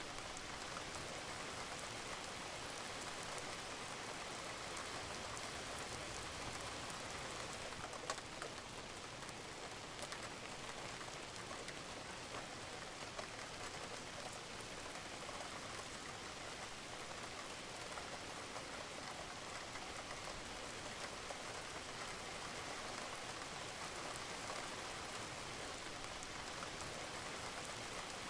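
Steady rain falling on a roof, a constant patter with individual drops ticking through it and one sharper drip about eight seconds in.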